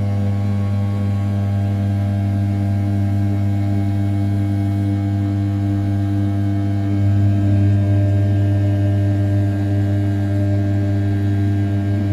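Original Mind RZ420 CNC mill's 500 W brushless spindle at 6000 rpm, roughing the outside profile of an A7075 aluminium block: a steady droning hum pitched at the spindle speed with a stack of overtones. It gets slightly louder from about seven seconds in.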